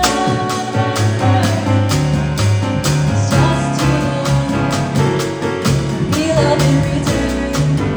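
Small jazz band playing, with a singer over a bass line of evenly stepped notes and drums keeping a steady beat of cymbal strokes.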